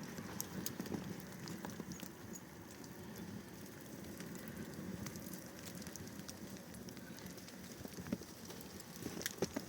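Small wood fire burning, with scattered sharp crackles over a steady low rush of flame, the crackles busier near the end.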